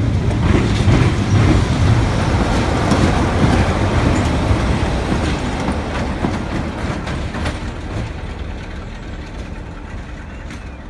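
A diesel-hauled passenger train passing close by: coach wheels rumbling over the rails, then the rear diesel locomotive going past. The sound fades steadily over the last few seconds as the train draws away.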